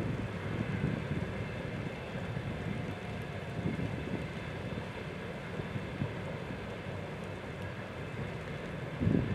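Distant freight train rolling steadily across a railway viaduct, with wind buffeting the microphone in gusts at the start and again near the end.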